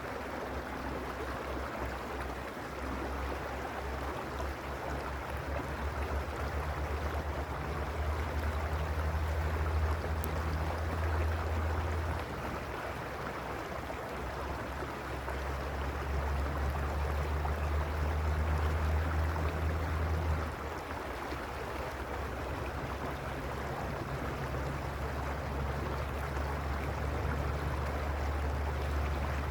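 Mountain stream rushing and gurgling steadily over rocks, under a low rumble that swells and drops back twice.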